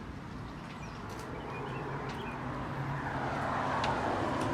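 A road vehicle approaching, its noise growing steadily louder, with a steady low engine hum coming in about halfway. Faint bird chirps.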